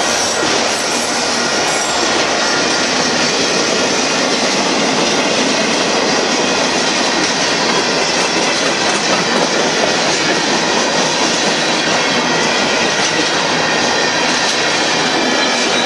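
Freight cars of a Union Pacific mixed merchandise train rolling past: a loud, steady noise of steel wheels running on the rails.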